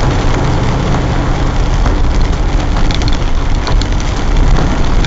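Land Rover engine running steadily at low revs under a constant rushing hiss of water, with faint scattered ticks.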